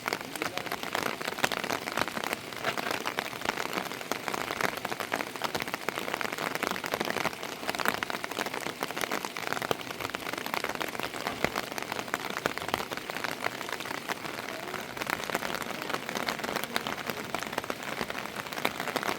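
Rain falling steadily on a surface: an even hiss dotted with many separate drop hits.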